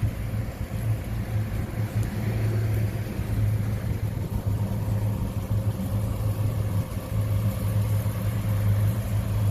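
The engine of a 1972 Chevrolet donk running steadily, a deep even hum with no revving.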